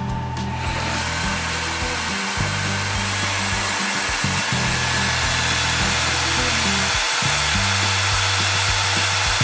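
Narwal S10 Pro wet-dry floor cleaner running its self-cleaning cycle: a steady motor-and-water rushing noise that sets in about a second in, over background music with a steady beat.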